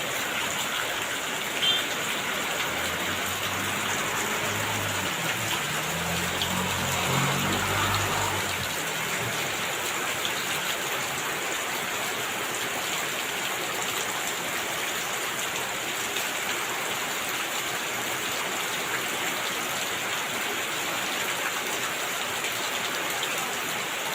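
Steady rain falling, an even hiss of drops on surfaces. A faint low hum rises and falls between about three and nine seconds in, and there is a single sharp tap near the start.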